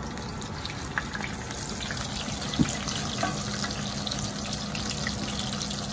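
Breaded chicken cutlets sizzling steadily in hot oil in a cast-iron skillet as they are turned over with a slotted metal spatula. There is a sharp clack about two and a half seconds in.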